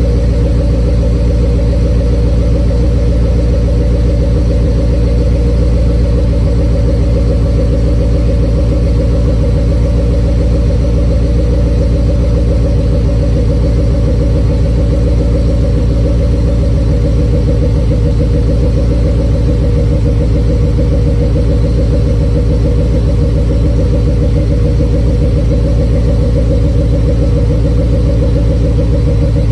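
1993 Chevrolet C4 Corvette's V8 idling steadily on a cold start, its exhaust a low, even rumble with no revving.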